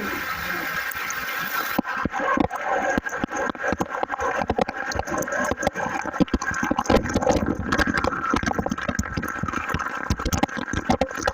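Steady rushing water. From about two seconds in, many irregular sharp crackles and knocks sound over it.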